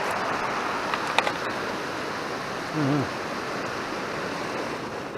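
Mountain stream rushing steadily, with a couple of sharp clicks about a second in and a brief wavering voice sound near the middle.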